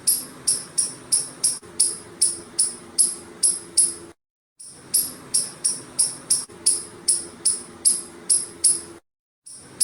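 Squirrel giving repeated sharp, high-pitched chirping calls, about three a second, in runs broken twice by a short silence.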